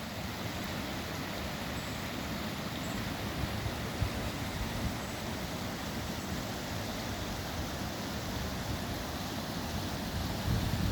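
Wind blowing: a steady rushing noise with a low rumble.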